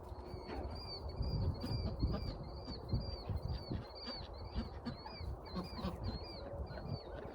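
A bird repeating a short, high, arched chirp over and over, about two to three times a second, over low rumbling thumps.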